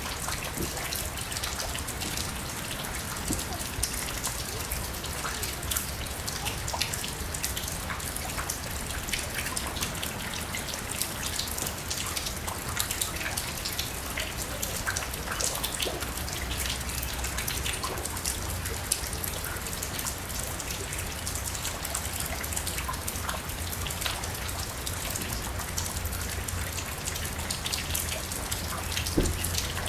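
Steady rain falling, with many separate drops ticking close by over a continuous hiss and a low steady rumble underneath.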